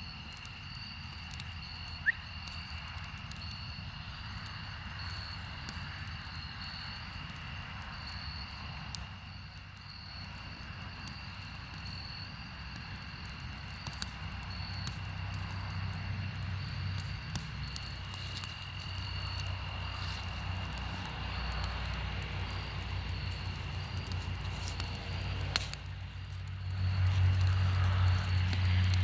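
Campfire crackling with scattered sharp pops, over insects trilling steadily in two high pitches, one of them pulsing. A low rumble grows louder near the end.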